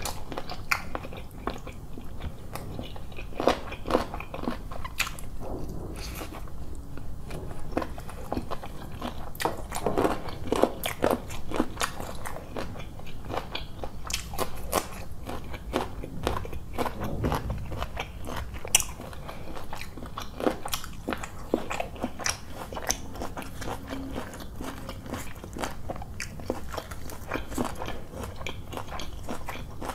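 Close-miked eating of roti with chicken curry: a person chewing and biting with the mouth open, many short, sharp, irregular mouth clicks and smacks.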